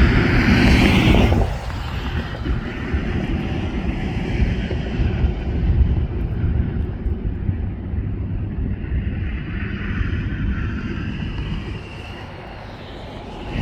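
Gulfstream G450 business jet's twin Rolls-Royce Tay turbofans at takeoff power, a high whine and loud rumble for the first second and a half, then a steady low rumble.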